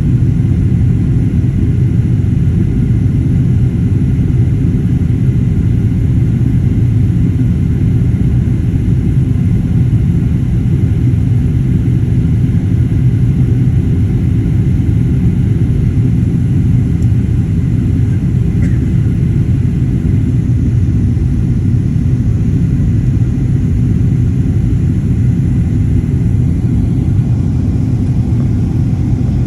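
Steady low rumble of an airliner cabin in flight.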